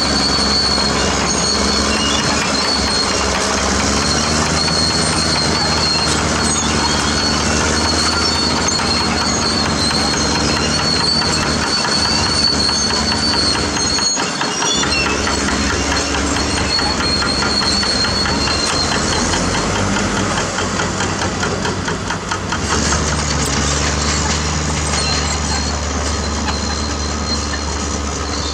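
CAT D6R bulldozer running and moving, its diesel engine working with pitch shifts a few times as the load changes, over the clatter and high squeal of its steel tracks.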